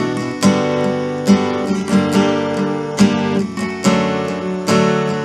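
Acoustic guitar strummed in a steady chord pattern, with no voice: an instrumental passage between sung lines of a song.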